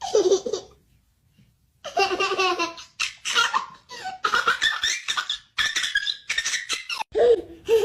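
Young child laughing in quick, high-pitched bursts. A short laugh comes at the start, then a pause of about a second, then a long run of giggling.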